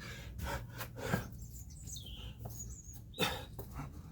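A man breathing hard, in short forceful breaths, while doing burpees, with the knocks of his body and hands hitting the floor between the breaths. A louder impact comes about three seconds in.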